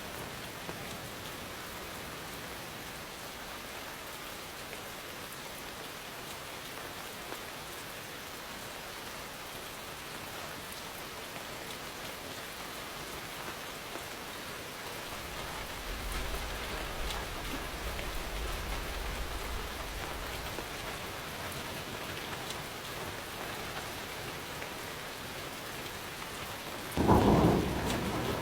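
Steady rain falling, with a low roll of thunder rumbling about halfway through and a sudden loud thunderclap near the end.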